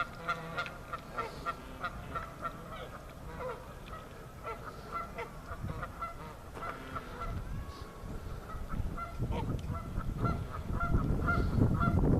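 Geese honking over and over, several short calls a second. A low rumble builds over the last few seconds.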